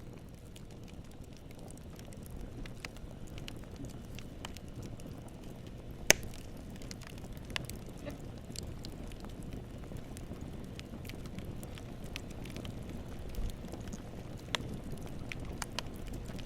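Campfire burning, with the wood crackling in scattered sharp pops over a steady low rush; one pop about six seconds in is much louder than the rest.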